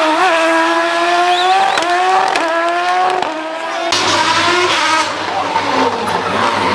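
Rally car engine at high revs under hard acceleration, its note climbing and then dropping sharply with each quick upshift, three times in the first few seconds. After about four seconds a second, rougher engine passage follows, rising again.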